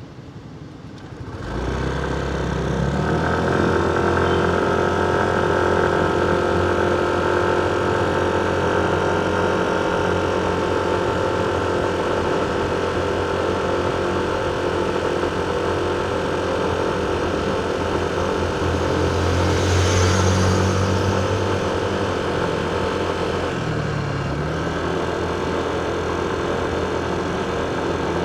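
Motorcycle engine running steadily at low revs, coming in abruptly about a second and a half in. About two-thirds through there is a brief louder swell with added hiss.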